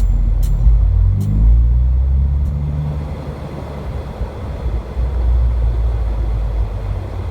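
Nissan 370Z's 3.7-litre V6 engine revving, rising in pitch about a second in and then settling into a lower, steady drone. A few short, sharp ticks sound in the first few seconds.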